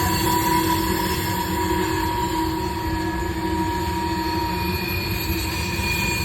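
Train passing close by: a loud, steady rumble of rail cars rolling over the track, with steady high squealing tones from the wheels on the rails.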